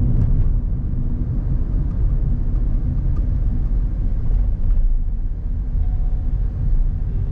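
Car driving, heard from a camera on the vehicle: a steady low rumble of tyres and wind, with a few faint ticks.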